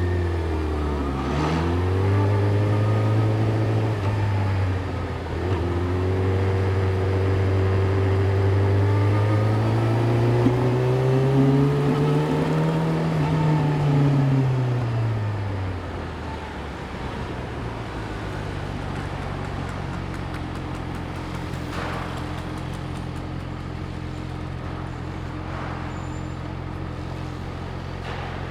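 Yamaha YZF-R6's 600 cc inline-four engine at low speed in traffic, its note rising and falling through the first half. About sixteen seconds in it drops to a steady idle.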